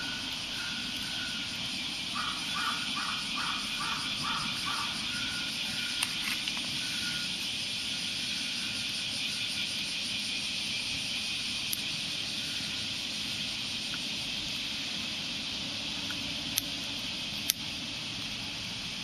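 Steady outdoor hiss with a few sharp clicks scattered through it, and a bird calling in a quick series of notes a few seconds in.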